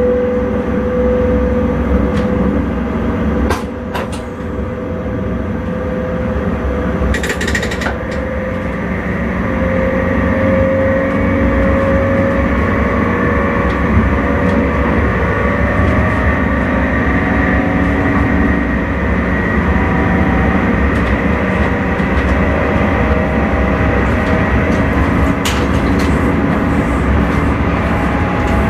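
Electric intercity train running on the line, heard from inside the driver's cab: a steady rumble with several humming tones that waver slightly in pitch. A few sharp clicks come about four seconds in, and a short hiss about seven seconds in.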